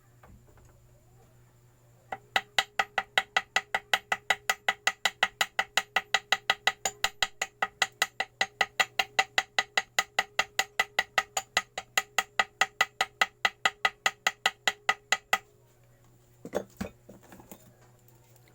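A small hammer tapping rapidly and evenly on metal, about four ringing taps a second for some thirteen seconds, as in tapping gasket paper against an engine's mating face to cut out a homemade gasket. It stops abruptly, and a couple of knocks follow near the end.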